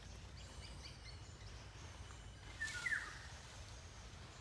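A bird's short chirping call, two quick notes about three seconds in, with a brief rustle at the same moment, over a low steady rumble of forest background.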